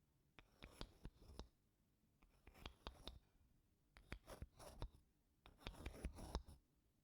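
Wooden spoon scraping across wooden blocks in four soft strokes, each about a second long with small clicks of wood on wood, separated by short pauses.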